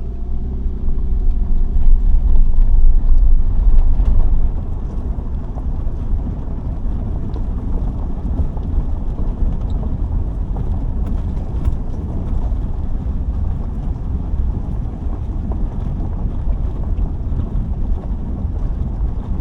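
Subaru driving up a gravel road: a steady low rumble of engine and tyres on gravel, louder for the first four seconds or so, then settling to an even level.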